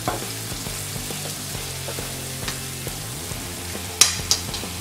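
Sliced onions and crushed ginger-garlic paste sizzling in hot oil in a steel kadhai while being stirred with a metal slotted spoon. A few sharp metal clinks of the spoon on the pan come near the end.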